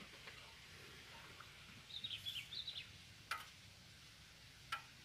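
Quiet background with a short run of bird chirps about two seconds in, followed by a sharp click about a second later and another near the end.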